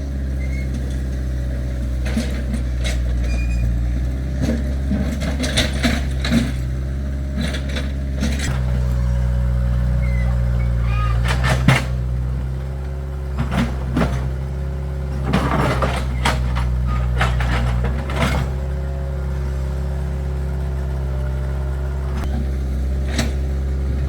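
Excavator's diesel engine running steadily. It works harder from about a third of the way in until about three quarters through, then settles back, with scattered knocks and clanks over it.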